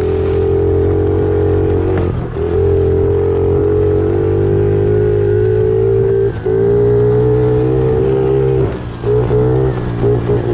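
Pit bike engine running at steady throttle while riding a trail. It briefly drops off about two seconds in and again past six seconds, then goes choppy with on-off throttle near the end.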